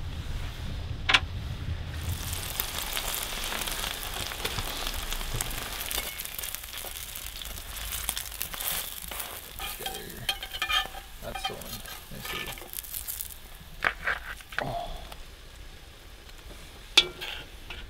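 Pulled pork sizzling as it heats in a pan, with a few sharp knocks of a utensil or the pan. The sizzle dies down about 13 seconds in.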